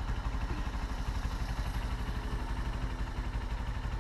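Honda CBR125R's single-cylinder four-stroke engine idling, a steady, even low pulse.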